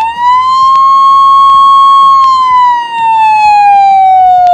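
Ambulance siren sound effect played back from a slideshow: one long wail that holds a steady pitch for about two seconds, then slowly falls.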